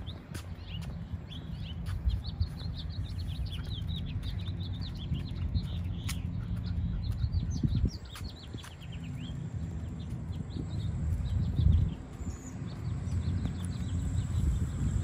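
Small birds chirping in quick, repeated high notes, busiest in the middle stretch, over a steady low rumble with a few sharp clicks.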